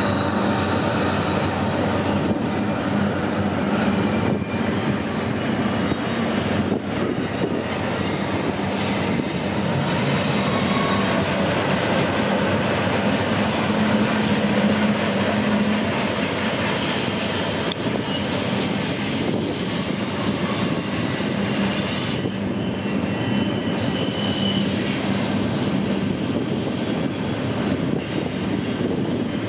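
A double-stack container freight train passing: a steady, loud rumble of wheels on rail, with a couple of brief high wheel squeals about two-thirds of the way through.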